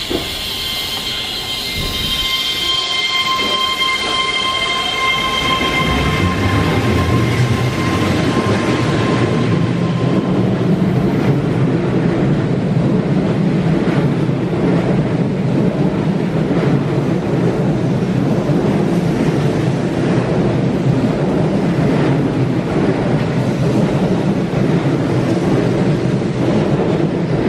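Keihan 3000 series electric train pulling out of the station. A steady high whine for the first several seconds as it starts to move, then a continuous rumble of wheels on rails that builds up about six seconds in and holds as the cars run past.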